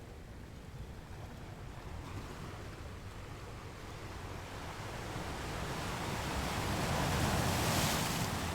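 Ocean surf: a wave builds slowly, swells to its loudest about seven to eight seconds in as it breaks, then drops away.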